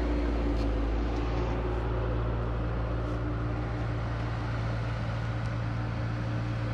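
A motor vehicle's engine running steadily at a constant speed, a deep even hum with a noisy rush over it.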